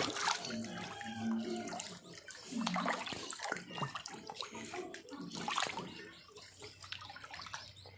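Water splashing and sloshing as a dog swims.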